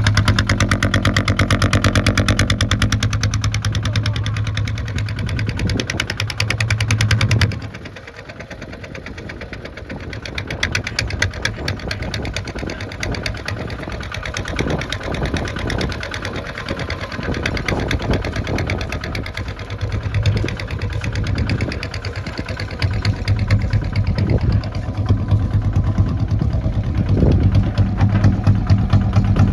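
Kubota ZT 155 two-wheel tractor's single-cylinder diesel engine running with a fast, even beat. About seven and a half seconds in it drops suddenly to quieter, lower running, then picks up again toward the end.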